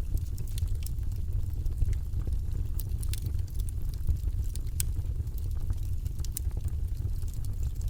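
Fireplace fire crackling: irregular sharp pops and snaps, a few louder than the rest, over a low steady rumble.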